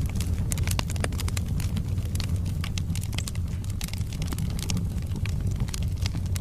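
Wood fire burning in a fireplace: logs crackling with many sharp pops, several a second at irregular intervals, over a steady low rumble of the flames.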